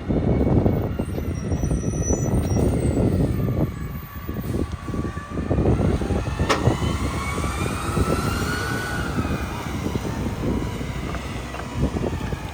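Mack LEU garbage truck with a New Way rear loader at work: the engine runs with a whine that rises and falls in pitch, over irregular clatter and knocks, with one sharp knock about halfway through.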